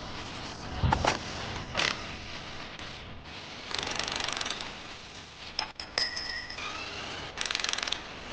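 Hand-tool work on a car: a few sharp knocks, then two short runs of rapid ratcheting clicks, with a brief squeak between them.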